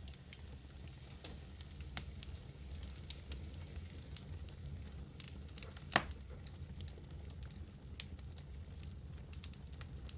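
Medium wood fire burning: a steady low roar with scattered crackles, one loud pop a little past the middle, and two smaller pops, one before and one after it.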